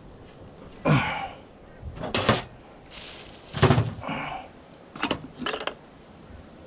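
Five irregular knocks and clunks of parts and tools being handled, the loudest a little past halfway.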